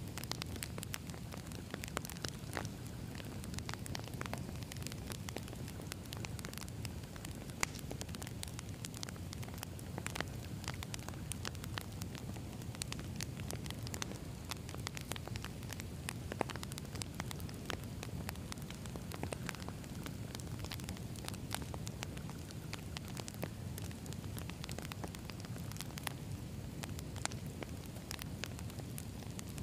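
Campfire of burning firewood logs: steady low rumble of flames with frequent irregular sharp crackles and pops.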